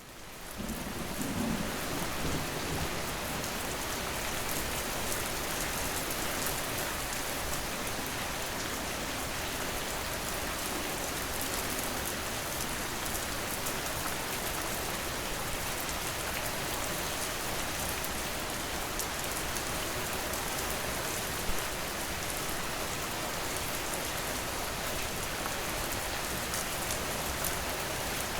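Steady rain falling on a surface, a dense even hiss flecked with the patter of individual drops, fading in over the first second.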